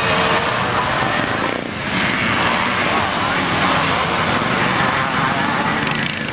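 Several motocross motorcycle engines racing on the track, revving up and down, with a short dip in level about a second and a half in.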